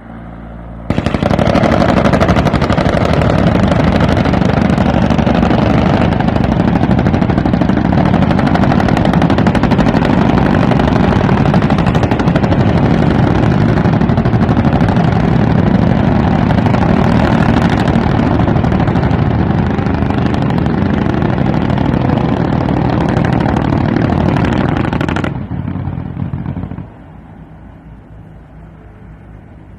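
T129 ATAK attack helicopter running loud, with a rapid, continuous beat from its rotor over the engine noise. It drops sharply about 25 seconds in and stays quieter and duller until the end.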